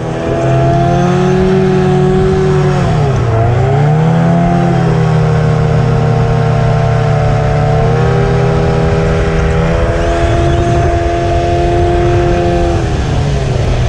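Racing boat engine running hard at high revs, with rushing wind and water noise underneath. The revs drop and pick back up about three seconds in, then hold steady and ease off slightly near the end.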